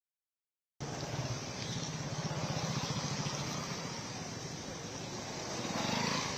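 Road traffic on a waterlogged street: vehicle engines running over a steady rush of water and tyre noise. It starts after a moment of dead silence, and a swell near the end suggests a vehicle passing closer.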